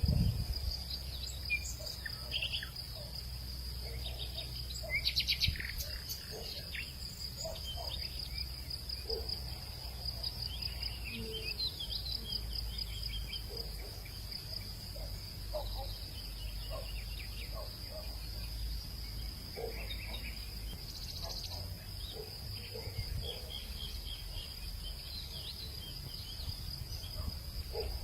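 Hillside evening ambience: insects trilling in a steady, unbroken high drone, with scattered short bird chirps over it and a low steady rumble underneath.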